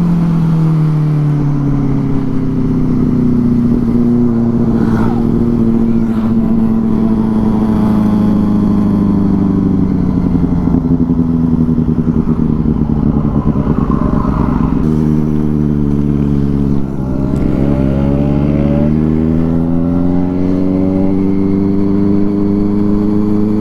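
Benelli 600i inline-four motorcycle engine through an aftermarket IXIL exhaust, running under way: the engine note falls early on, holds steady, drops sharply with a brief dip around 17 seconds in, then climbs and holds again as the rider gets back on the throttle.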